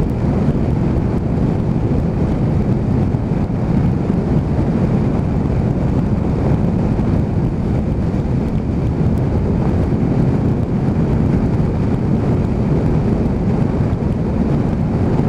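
Heavy wind rush over the microphone from a motorcycle ridden at speed, with a Honda VFR800's V4 engine running steadily underneath it.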